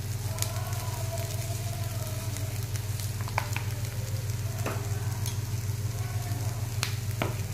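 Boiled-potato and onion stuffing sizzling in oil in a kadhai while a steel spatula stirs it, with a few sharp clicks of the spatula against the pan. A steady low hum runs underneath.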